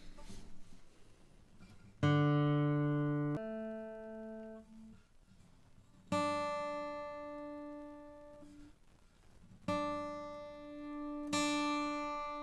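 Seagull S12 Coastline 12-string acoustic guitar, freshly restrung, with single strings plucked one at a time and left to ring out while being tuned: five separate notes, each starting sharply and fading.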